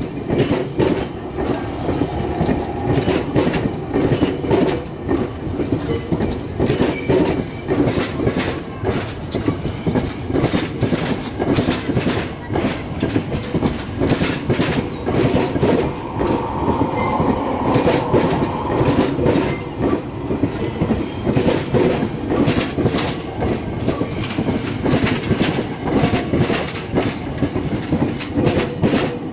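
Electric multiple-unit commuter train passing at close range, its steel wheels clattering in a fast, steady rhythm over the rail joints and switch rails of a new Chinese-made turnout. A brief wheel squeal rises a little past halfway.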